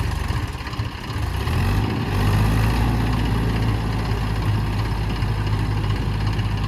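Tractor diesel engine running. It drops in level briefly, then runs louder and steady from about two seconds in.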